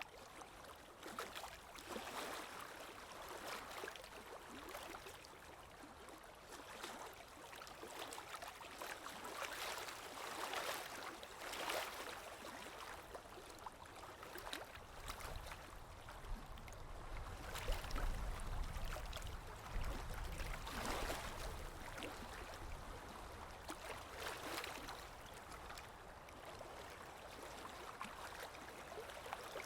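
Waves washing on the shore, a continuous wash that swells and eases every few seconds, with a low rumble about halfway through.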